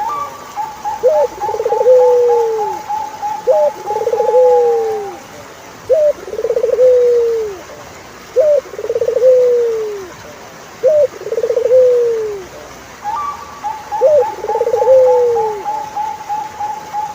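Turtle dove cooing over and over, about every two and a half seconds: a short rising note, then a quavering coo that slides down. A fast run of higher, evenly spaced notes from another caller plays alongside at the start and again near the end.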